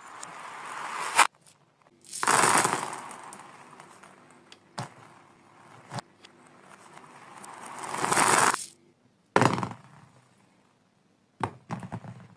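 Marbles rolling and clattering, played in reverse: the rolling noise swells and then cuts off abruptly, twice, with sharp clicks of marbles scattered through and several together near the end.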